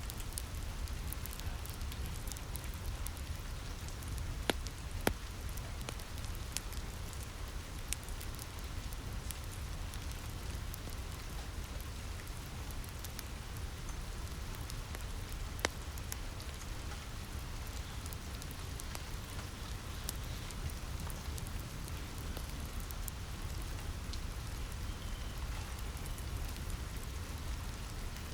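Steady rain falling on a roof, with a low rumble beneath it, mixed with a fireplace crackling. The fire gives scattered sharp pops, the loudest about five seconds in and again near sixteen seconds.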